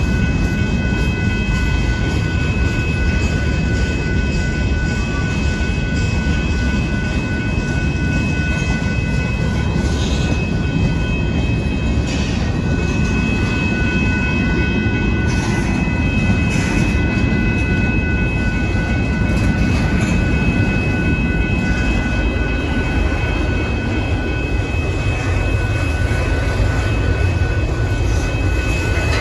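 Union Pacific grain train of covered hopper cars rolling past: a steady low rumble of steel wheels on the rails, with steady high-pitched tones ringing over it and a few faint clanks.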